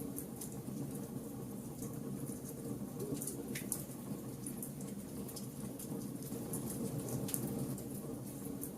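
Wood fire burning: a steady low rush of flames with frequent sharp crackles and pops from the burning wood.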